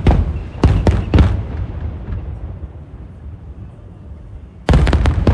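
Aerial firework shells bursting as a string of sharp booms: four in the first second and a half, then a rapid volley near the end. A low rumble and echo runs between them.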